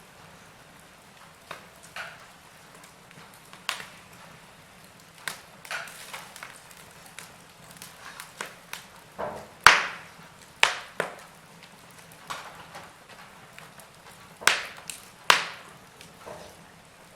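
Wood fire with logs crackling: irregular sharp pops and snaps over a faint steady hiss, the loudest pop a little past halfway and two more strong ones near the end.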